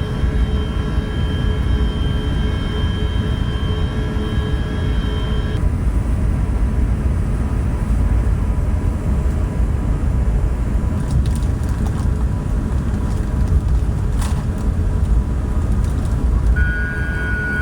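Airbus A380 jet engine noise heard inside the cabin: a steady deep rumble with high thin whining tones over it. The whine changes abruptly about a third of the way in and again near the end, with a few faint clicks in between.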